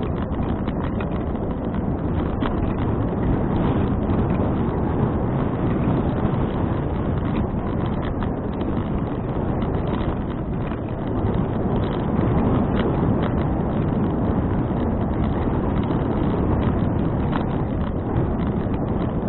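Steady wind rumble on an action camera's microphone while cycling, with road noise and faint scattered ticks and rattles from the bicycle.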